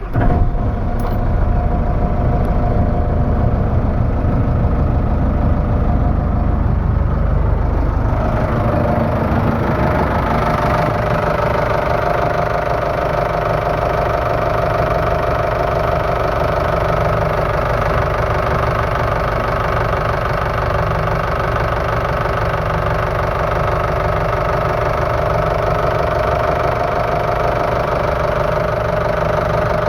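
Sunfisher 780 boat's engine running at idle just after being started. Its note steps up and changes character about eight seconds in, then runs steadily.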